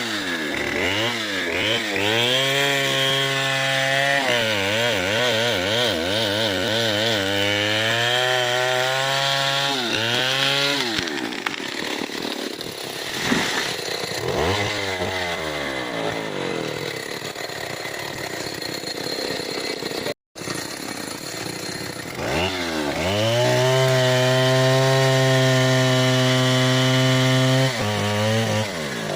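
Stihl 070 two-stroke chainsaw cutting into a large mahogany trunk, revving up and down repeatedly and holding steady at full throttle for several seconds at a time, twice. The sound cuts out completely for a split second about two-thirds of the way through.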